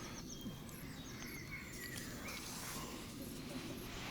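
Quiet outdoor ambience: a low steady rumble with faint bird chirps.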